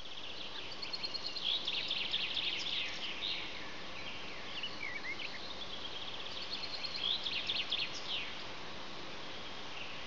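A songbird singing two phrases of rapid, high chirping notes, one starting about half a second in and the other about seven seconds in, over a steady hiss of background noise.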